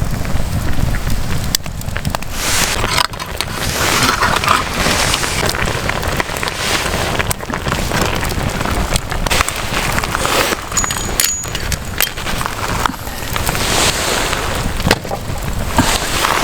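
Wind rumbling on the microphone over a wood campfire, with sharp crackles and pops from the burning logs now and then.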